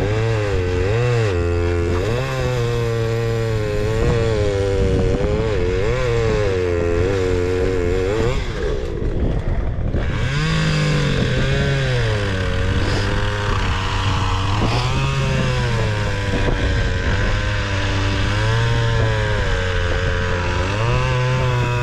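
Two-stroke chainsaw running and cutting through a large fallen log, its engine note rising and falling every second or two as the throttle is worked.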